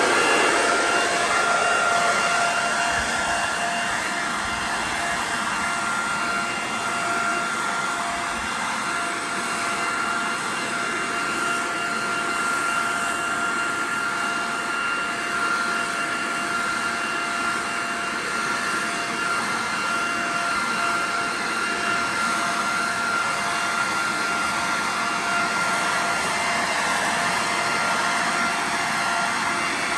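Corded electric leaf blower-vacuum, set up as a blower, running steadily: a rush of air with a steady high whine over it.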